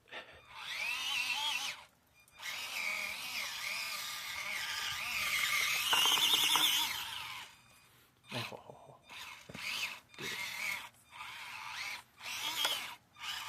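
The small electric motor and gears of an Axial SCX24 C10 1/24-scale RC crawler whining as it drives, rising and falling in pitch with the throttle. A longer run is loudest about six seconds in, followed by short stop-start blips near the end.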